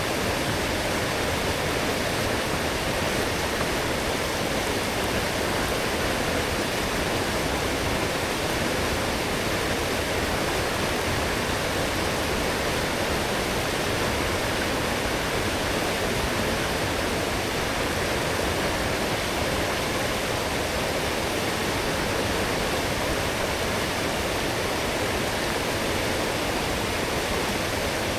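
A strong forest stream running high after heavy rain, a steady rush of flowing water.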